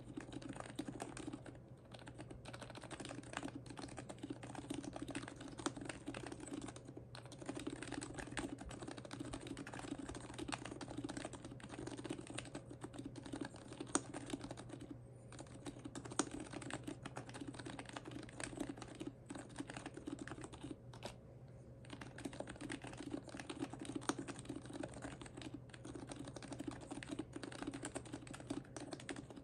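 Typing test on an HHKB Professional Hybrid Type-S with lubed, silenced Topre switches, PBT keycaps and a heavy aluminum case: continuous fast, muted keystrokes with brief pauses.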